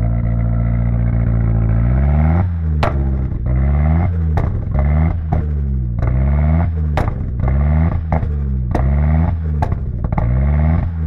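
Nissan 200SX S13's turbocharged SR20DET four-cylinder engine revved over and over, first one longer rev, then quick blips about once a second, the pitch rising and falling each time. Each time the throttle shuts, a sharp turbo flutter follows.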